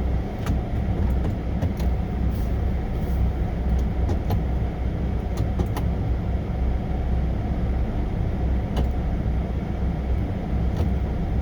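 Semi truck's diesel engine idling, heard from inside the cab as a steady low rumble, with a few faint clicks.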